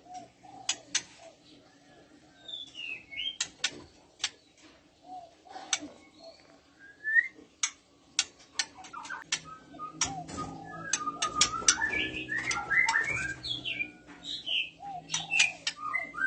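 White-rumped shama calling: sharp clicking ticks mixed with short whistled notes, growing busier and louder from about ten seconds in.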